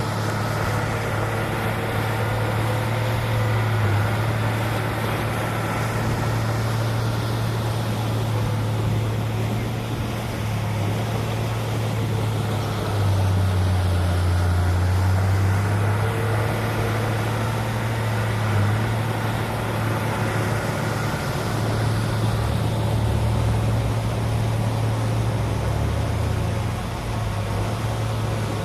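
Heavy diesel engine of an earthmoving machine running steadily, its low note dropping and deepening twice as it comes under load.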